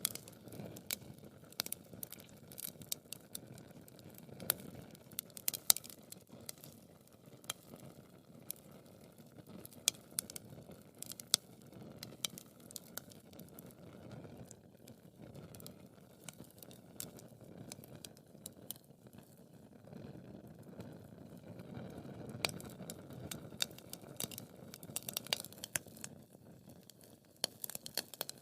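Wood fire crackling: irregular sharp pops and snaps, several close together at times, over a low steady rush of burning.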